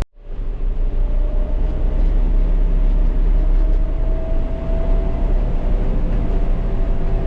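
Tractor engine running steadily under load with a deep drone and a faint whine that slowly rises in pitch.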